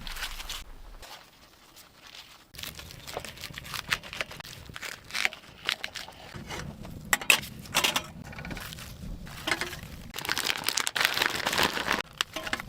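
Crinkling and rustling of material being handled, in irregular bursts with scattered sharp clicks and crackles, densest near the end.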